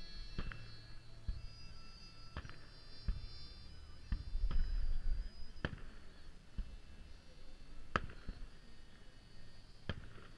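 Aerial firework shells bursting, about six sharp bangs a second or two apart, over a low rumble.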